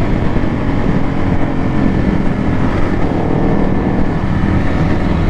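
Motorcycle engine running steadily at cruising speed while riding, with road and wind noise.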